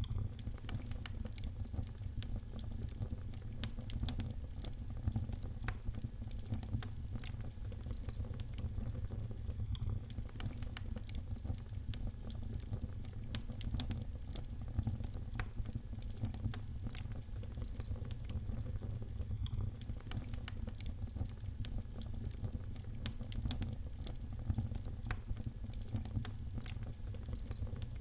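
Wood fire in a fireplace crackling: frequent small, irregular pops and snaps over a steady low rumble.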